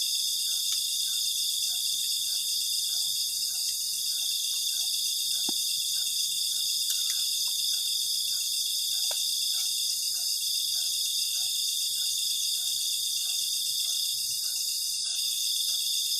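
Dense night chorus of crickets and other insects: a steady high-pitched ringing, with a fainter chirp repeating about twice a second beneath it.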